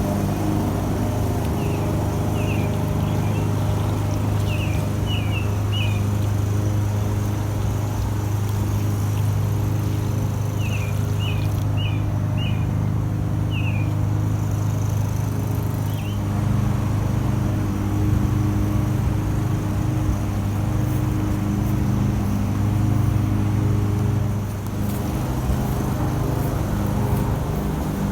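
A steady low motor hum, like a small engine running, shifting slightly about halfway through. A bird chirps in two quick runs of short notes in the first half.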